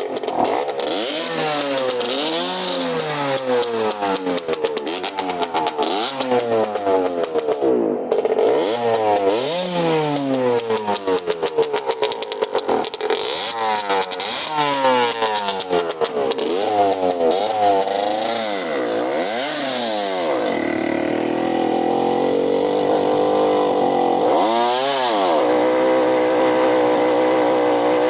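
Motorcycle engine being revved repeatedly, its pitch climbing and dropping in quick blips of the throttle, then holding a steady fast idle from about 21 seconds in, with one more short rev near 25 seconds.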